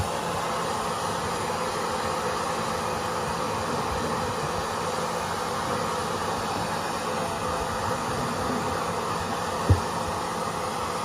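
Hair dryer blowing steadily, with one short low knock near the end.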